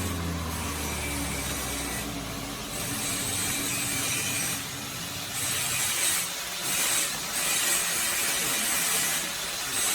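A woodworking machine's motor hum slowly dropping in pitch and fading out over the first two seconds, as it spins down. Then a series of rasping strokes, something rubbing or sawing against wood, each lasting about half a second to two seconds.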